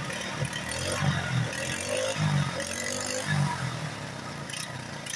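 Predator small engine running, revved up in several short surges, then settling back toward an idle near the end.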